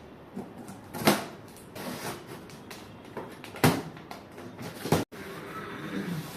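Packaging being handled: scraping and rustling broken by three sharp knocks, about a second in, past the middle and near the end, with a brief cut-out just after the last.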